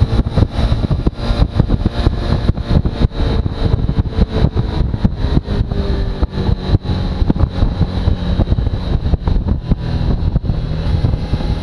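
Suzuki V-Strom motorcycle on the move with its engine running, buried under heavy wind buffeting on the microphone: a constant low rumble broken by rapid, irregular knocks.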